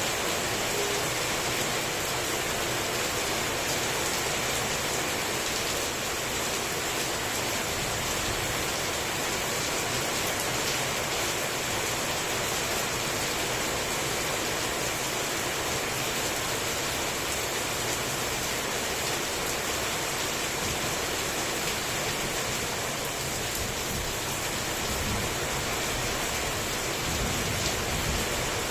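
Heavy tropical rain falling steadily: an even, unbroken hiss of rain on surfaces.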